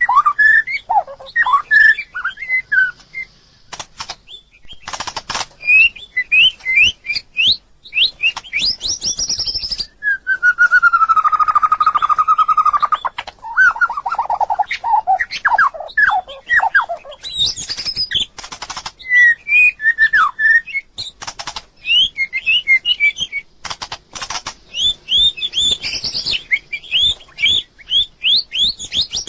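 White-rumped shama singing: a varied run of short whistled notes gliding up and down, with a longer wavering note in the middle and many sharp clicks between phrases.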